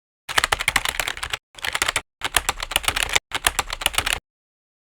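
Rapid clicking like keys being typed, in four bursts with short gaps, each starting and cutting off abruptly.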